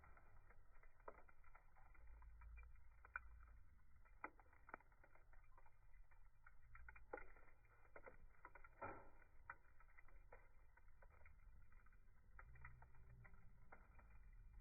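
Campfire crackling faintly: irregular sharp pops and snaps from the burning wood, over a low rumble.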